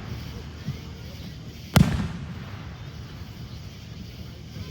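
Fireworks going off: a faint pop near the start, then one loud bang a little under two seconds in, with a low rumble between the reports.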